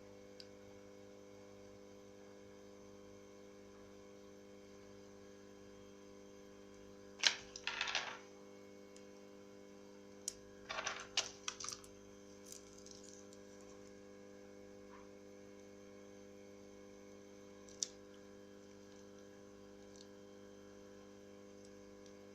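Small sharp clicks and taps of hands handling a phone and its parts on a work surface: a quick cluster about a third of the way in, another a few seconds later, and one lone click near the end, over a steady electrical hum.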